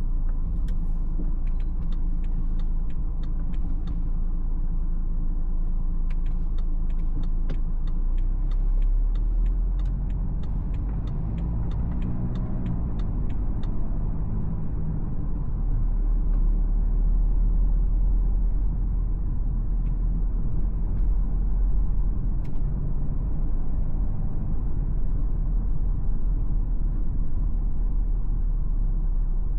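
Cabin sound of a 2017 BMW X4 xDrive20d in city traffic: its 2.0-litre four-cylinder diesel and the tyres give a steady low rumble, and the engine note rises partway through as the car accelerates. Through the first half an even ticking of about three a second runs over the rumble, typical of the turn-signal indicator.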